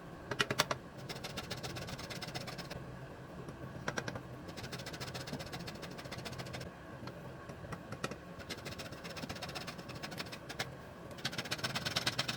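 Rapid, even tapping in several bursts of about two seconds each, over a steady low hum.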